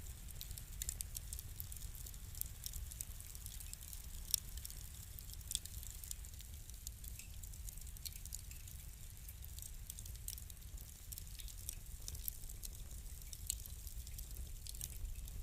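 Fire crackling: irregular small sharp pops and crackles over a steady low rumble, with one louder pop about four seconds in.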